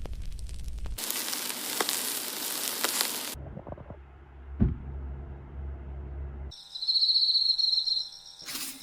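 Outdoor sound cut together from several clips. First comes a steady high hiss, then low rumbling with a single sharp knock about halfway. Near the end there is a high, rapidly pulsing trill like an insect's chirping.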